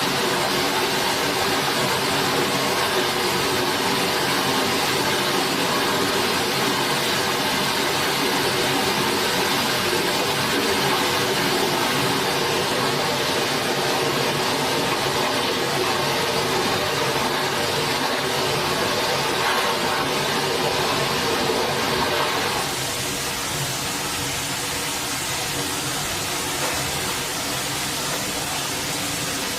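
Steady rushing of a forest stream's running water. About 23 seconds in it changes suddenly to a slightly quieter, duller rush.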